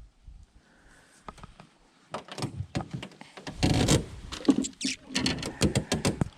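Handling noises: a run of irregular knocks, clicks and rubbing, with a denser rustling stretch about halfway through and a quick flurry of clicks near the end.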